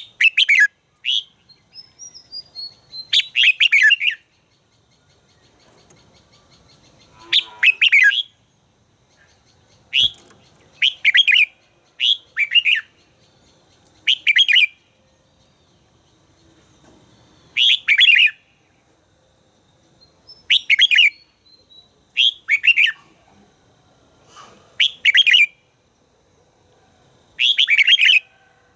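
Red-whiskered bulbul singing: short, bright warbled phrases repeated every one to three seconds.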